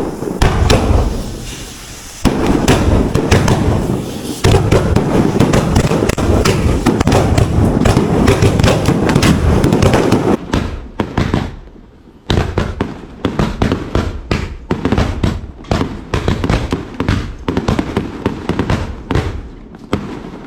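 Chinese double-bang firecrackers (ertijiao) going off one after another in a loud, rapid chain of bangs. The bangs are packed tight for about the first half, thin out briefly, then come again as a quicker run of separate cracks.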